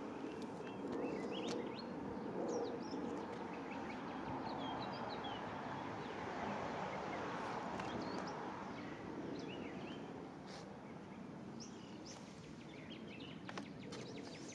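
Steady background noise with small birds chirping now and then, high and brief.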